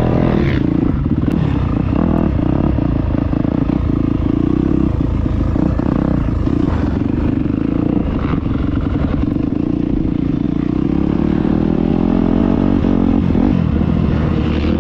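Dirt bike engine running loud and rough close to the microphone, its pitch climbing near the end as the throttle opens.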